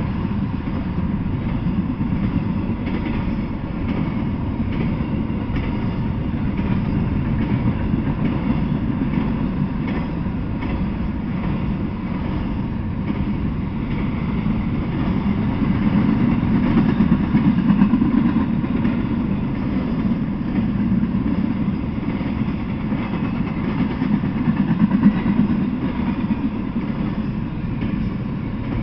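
Intermodal freight train rolling past, a steady rumble of steel wheels on the rails under its container-laden well cars, swelling a little past the middle.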